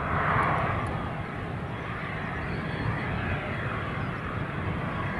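Jet airliner engines running: a steady rushing noise, with gusty wind rumbling on the microphone underneath.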